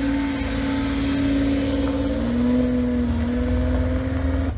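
Car engine running at a steady, held pitch, settling slightly lower a little past halfway; the sound cuts off abruptly at the end.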